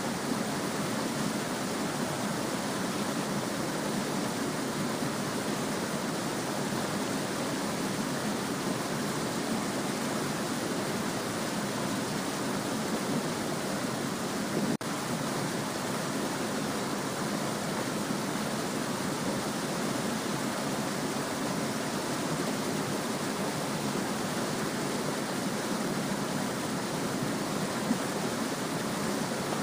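A small stream babbling steadily, a continuous even rush of water, with a momentary dropout about halfway through.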